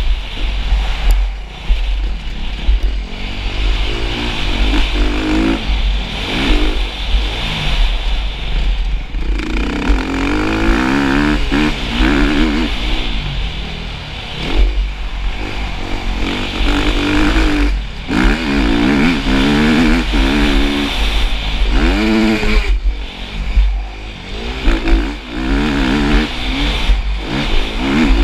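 Motocross motorcycle engine revving up and down over and over, its pitch rising and falling every second or two as the rider works the throttle through the track.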